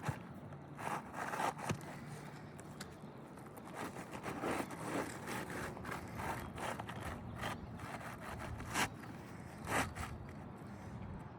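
Scattered scrapes and rustles of asphalt roof shingles being worked by hand, a few short strokes at a time, as the old nail spot is cleared so a new shingle can be slid into place.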